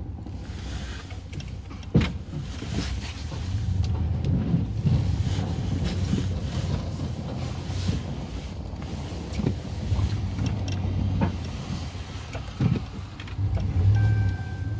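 Pickup truck with a snow plow running with a steady low drone, with scattered knocks and clunks and one sharp thump about two seconds in.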